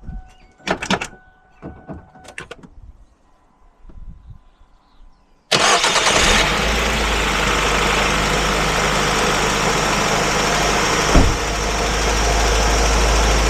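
2006 Ford Focus engine starting abruptly about five and a half seconds in, after a few clicks, then running loud and steady at idle on its fresh oil.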